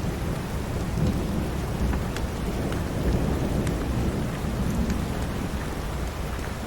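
Steady rain with a deep low rumble beneath it, broken by a few sharp, scattered crackles of a wood fire.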